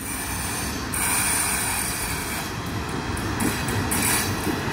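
Freight train of cement hopper wagons hauled by an E335 electric locomotive, running on the rails as it approaches: a steady rumble of wheels and wagons, with a high hiss that comes and goes.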